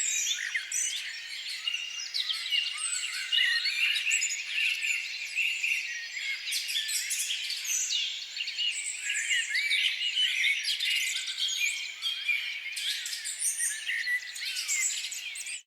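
Budgerigars chattering, with many quick, overlapping chirps and warbles that suggest several birds calling at once.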